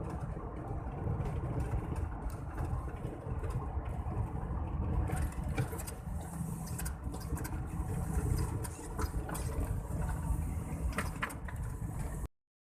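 Mitsubishi Fuso truck's turbo engine running steadily on the move, with a higher hiss joining in about halfway through. The sound cuts off suddenly near the end.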